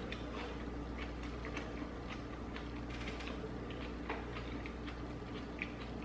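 A person chewing a mouthful of coleslaw: faint, irregular mouth clicks over a low steady hum.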